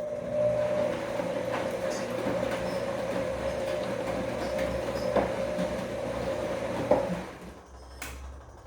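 Bosch Komfort-Klasse washing machine turning its drum during the wash: a steady motor whine over a low rumble, with scattered knocks from the laundry. The drum stops about seven seconds in, and a single sharp click follows near the end.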